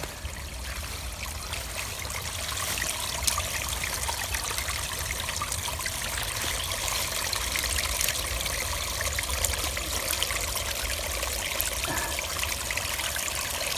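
Small creek running steadily over rocks in a continuous trickle, swollen by flood overflow from the pond's spillway; it grows slightly louder about two seconds in.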